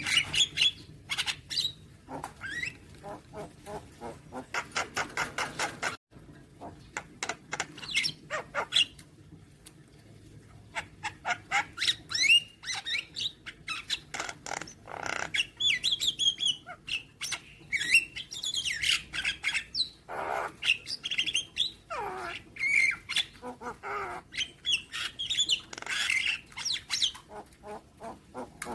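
Javan myna (jalak kebo) calling: a busy stream of harsh squawks, fast clicking rattles and short whistles that bend up and down in pitch, with a brief break about six seconds in.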